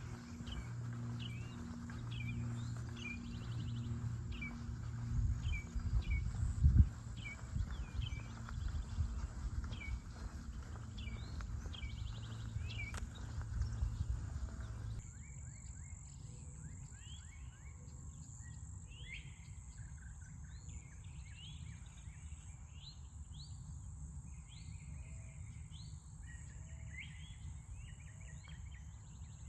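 Birds calling again and again over a low rumble and thumps of walking in the first half. About halfway the rumble drops away, leaving many bird calls over a steady high insect drone.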